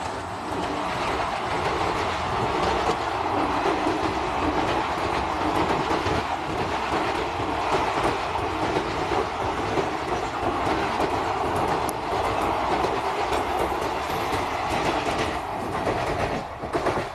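Blue Indian Railways passenger coaches rolling past, a steady rumble with the clickety-clack of wheels over the rail joints. The noise falls away right at the end as the last coach goes by.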